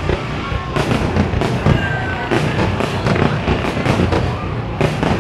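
Fireworks display: an irregular series of sharp bangs, several a second at times, over a continuous rumble of distant bursts and crackle.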